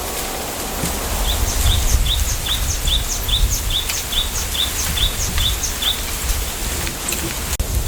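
A bird calling in a quick series of short, high chirps, about two or three a second, that stops about six seconds in and resumes near the end. Underneath runs a steady low wind rumble.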